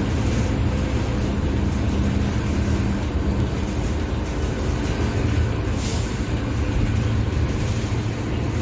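Mercedes-Benz OF-1721 Bluetec 5 bus's diesel engine running steadily, with a short hiss about six seconds in.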